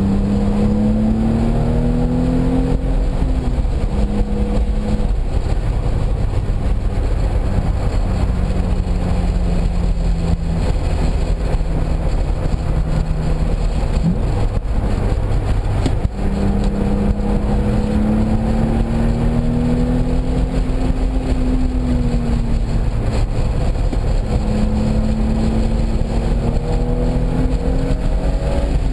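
Car engine being driven hard on a race track. Its note climbs under throttle, drops off, holds steady, then climbs again several times, over a constant loud rumble of road and wind noise.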